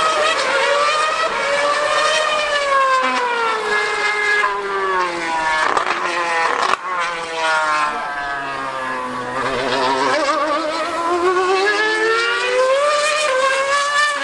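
2013 Formula 1 car's high-revving V8 engine screaming on track, its pitch sliding down, breaking off briefly about seven seconds in, then climbing again as it revs up.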